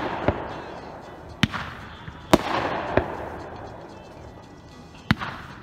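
Consumer aerial firework cake firing shot after shot: about five sharp bangs at uneven intervals, each followed by a fading crackle from the glittering burst.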